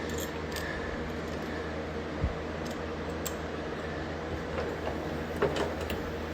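Scattered light clicks and taps of small metal hardware (screws, nuts, washers) being handled, over a steady low hum.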